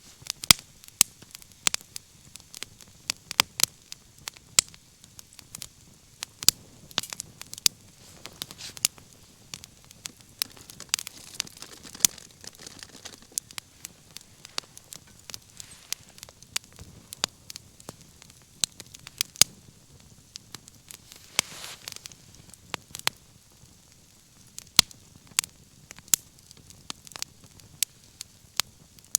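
Wood fire crackling: irregular sharp pops and snaps, several a second, some much louder than the rest, over a soft hiss of burning.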